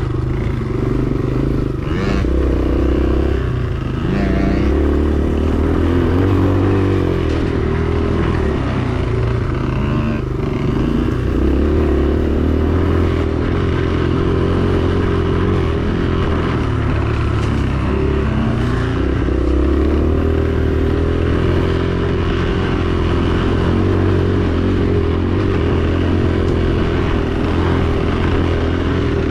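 Dirt bike engine running as it is ridden, the pitch rising and falling with the throttle.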